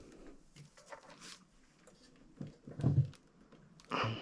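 Light knocks and clicks from a motorcycle frame and engine being shifted against each other, with one louder low thump about three seconds in.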